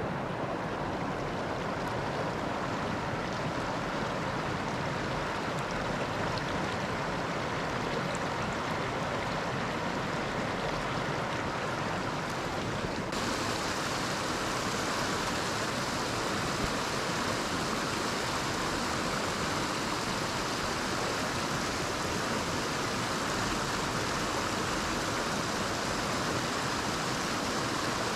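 Mountain stream rushing over rocks, a steady wash of water. About halfway through it suddenly turns brighter and hissier.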